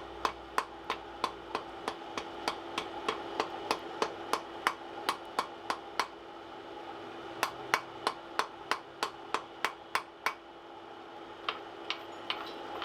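Rapid, even hand-hammer blows on steel over an anvil, about three a second, as the end of a coil-spring bar is forged down. They stop briefly about six seconds in, start again, and thin to a few scattered strikes near the end. A steady hum runs underneath.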